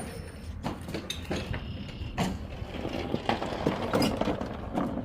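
Irregular knocks and clatter as the push lawn mower is moved by hand, busiest in the second half.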